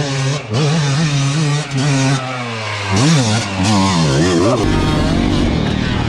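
Dirt bike engine revving, its pitch rising and falling repeatedly. About 4.5 s in it gives way to a rougher low rumble.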